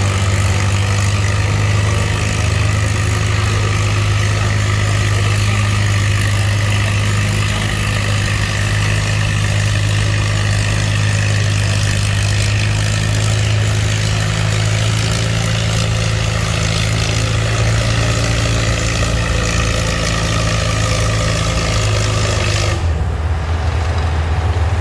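Antique tractor engine running steadily at a tractor pull, a loud unchanging low engine note with a wide noisy layer over it. Near the end the noisy layer cuts out suddenly and the low engine hum carries on alone.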